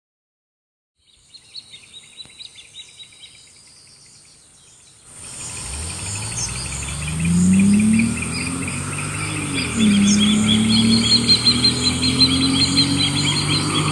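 Birds chirping, then from about five seconds in the V6 engine of a 2005 Audi A6 3.2 quattro, still far off, accelerating hard. Its pitch rises, drops at an upshift a few seconds later, and climbs again as it gets louder.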